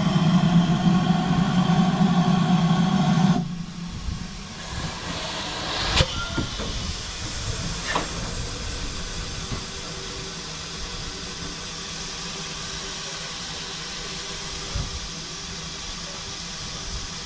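Steam train: a loud, rumbling run with a low hum for about three seconds that stops abruptly, then a quieter, steady hiss with two sharp clicks.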